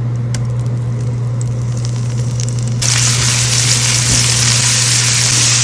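Frying in a hot pan: a quiet sizzle with a few light clicks, then about three seconds in something goes into the hot oil and a loud sizzle starts. A steady low hum sounds underneath.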